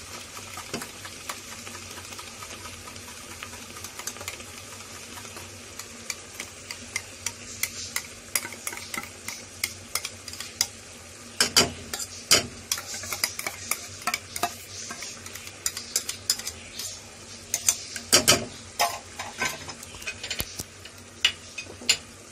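Tomato purée sizzling steadily in a metal kadai over a high flame, with frequent metallic clicks and taps from a wire whisk beating curd in a bowl and a slotted spoon in the pan, busiest about halfway in and again near the end.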